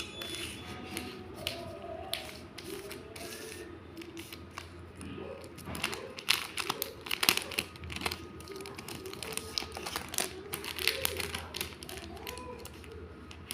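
Small stationery items being handled and unpacked: irregular clicks and taps, thickest in the middle of the stretch.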